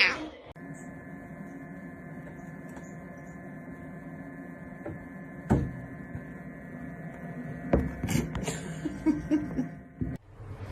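A steady electrical hum, with a few sharp clicks or knocks over it, one about five and a half seconds in and a couple about eight seconds in.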